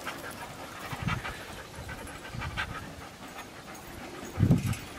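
Dogs panting, with a few soft low thuds and a short, louder low sound near the end.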